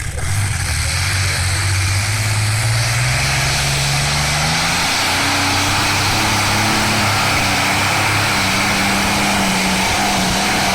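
Pulling tractor's engine at full power during a pull, loud and steady, its pitch climbing over the first few seconds and then holding high.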